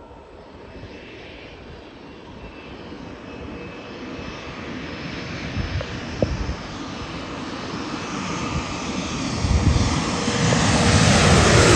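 Airliner engines growing steadily louder as the plane approaches low overhead, a rumble with a rising whine that is loudest near the end, where a tone begins to fall in pitch as it passes.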